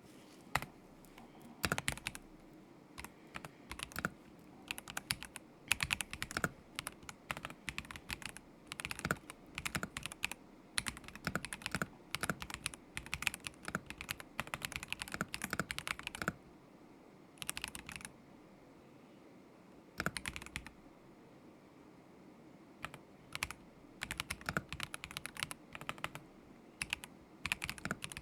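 Typing on a KZZI K75 Pro mechanical keyboard with Moment linear switches: quick runs of keystrokes with short pauses of a second or two between them.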